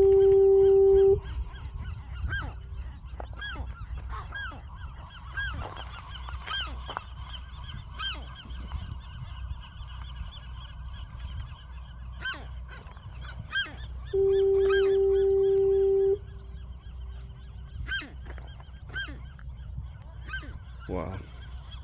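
Many western gulls calling at a nesting colony, short rising-and-falling cries overlapping all through. A loud steady low horn tone sounds for about two seconds at the start and again about fourteen seconds in, from the lighthouse fog signal.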